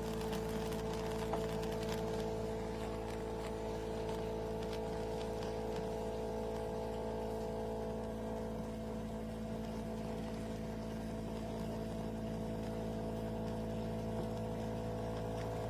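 De'Longhi Rivelia automatic espresso machine running through a milk drink, a steady unchanging hum from its pump and frother.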